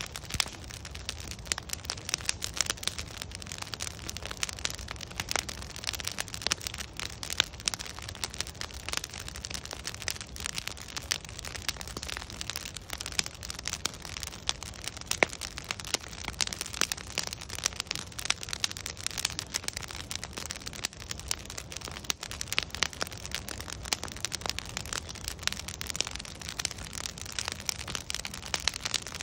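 Burning logs crackling in a bonfire: a dense, irregular stream of pops and snaps over a low, steady rumble.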